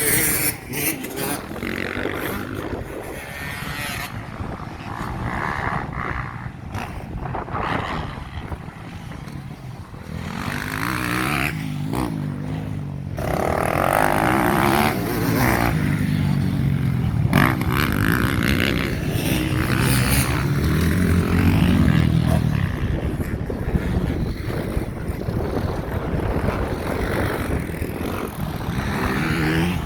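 Motocross bikes racing past, engines revving up and down as riders shift and throttle on and off. The sound builds and is loudest around the middle, as bikes come close.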